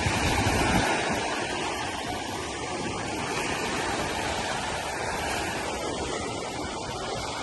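Sea surf washing on a beach, a steady rush of water with a low rumble in the first second.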